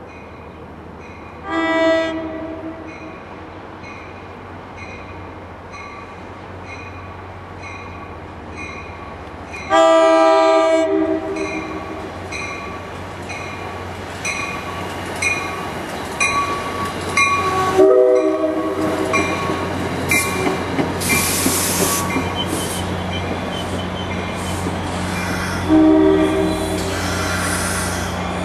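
An NJ Transit commuter train approaching with its cab car leading sounds its horn four times, each blast about a second long and several seconds apart. A bell rings at a steady beat of roughly one stroke every 0.7 s. In the second half the wheel noise and rumble of the coaches rolling past grows loud.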